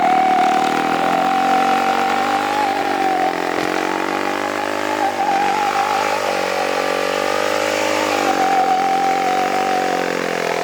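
Dirt-racing motorcycle engine held at high revs, loud and sustained, its pitch dipping and rising slightly through the run.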